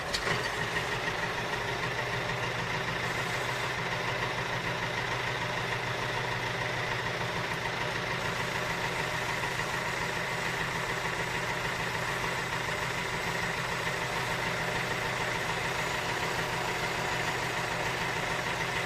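A DIY mini tractor's small electric motor running steadily, an even hum with a faint whine that does not change.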